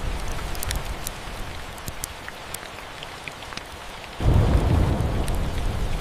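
Steady rain with rolling thunder: one rumble fading over the first couple of seconds, then a new, louder thunder roll breaking in suddenly about four seconds in. Small sharp ticks and crackles dot the rain throughout.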